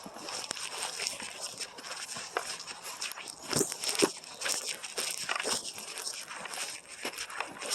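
Footsteps crunching and snapping through forest undergrowth and leaf litter, an irregular run of steps with a few sharper cracks about three and a half to four seconds in.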